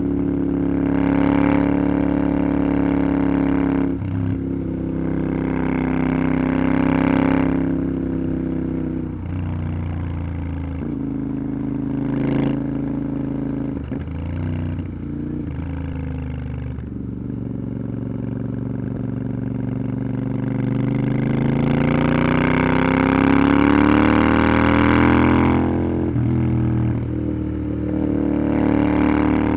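Motorcycle engine running under way, its note rising and falling with the throttle, with a few short breaks in the note and a long climb in revs about twenty to twenty-five seconds in.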